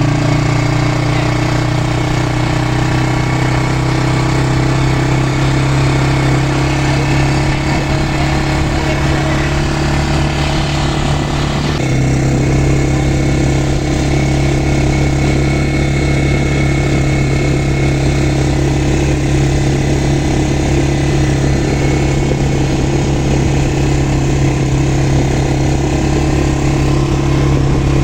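Quad bike engine running steadily at an even pitch, with a slight change in its note about twelve seconds in.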